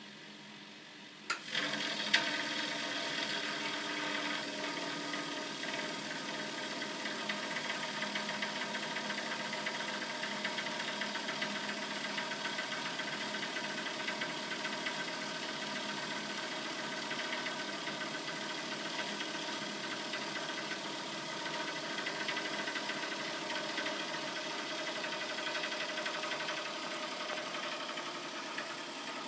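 Vaillant VC 254/2 XEH gas boiler: a click a little over a second in, then a steady rattling, knocking running noise. The owner is unsure whether this is boiling in the heat exchanger because the heat is not carried away, or the circulation pump rattling.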